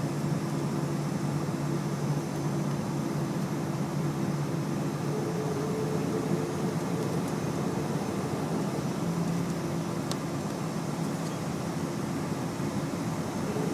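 Boeing 737-300 with CFM56-3 engines running steadily at low power: an even drone with a low hum and no spool-up.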